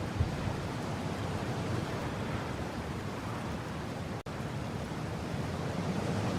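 Mountain wind blowing steadily, an even rush of noise heaviest in the low end. It cuts out for a split second a little over four seconds in.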